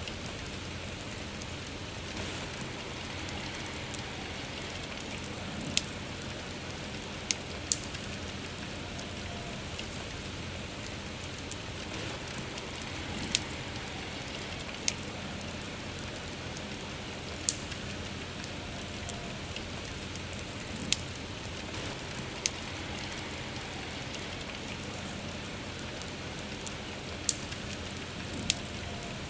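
Steady soft rain hiss with the sharp crackles and pops of a wood campfire, a single pop every few seconds.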